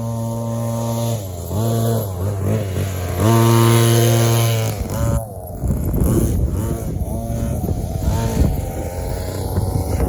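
Small two-stroke gas engine of an RC monster truck running with a steady buzz that falters briefly twice, then swings in pitch about five seconds in and runs rougher and noisier for the rest.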